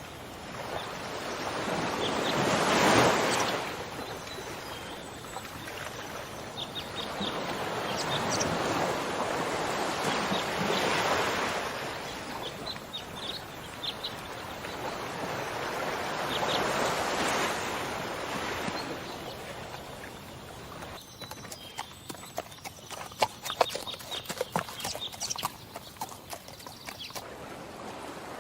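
Horse hooves clip-clopping in a run of sharp, irregular clacks near the end, after long rising and falling swells of rushing noise.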